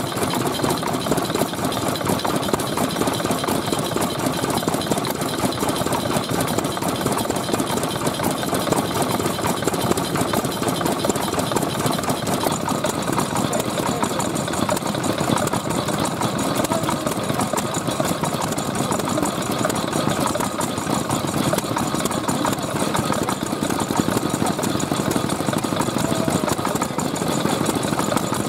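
Vintage Japanese stationary engines (hatsudōki) running steadily with a rapid, continuous knocking beat.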